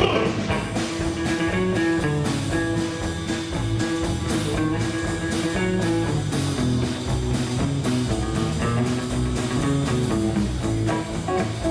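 Live country band playing an instrumental passage: electric guitar lead over bass and a steady drum kit beat.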